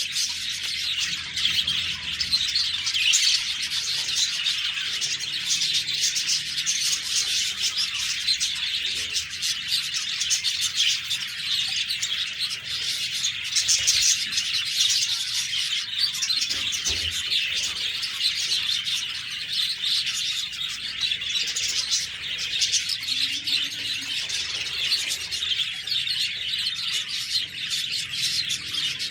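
Several budgerigars chirping and warbling together in a dense, continuous chatter.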